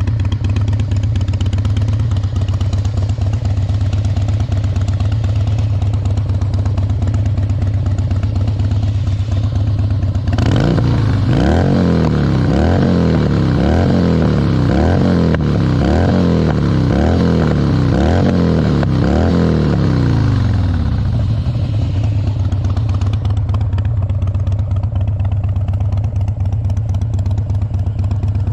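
Harley-Davidson Dyna Wide Glide's V-twin idling. About ten seconds in it is revved up and down about once a second for some ten seconds, then settles back to idle.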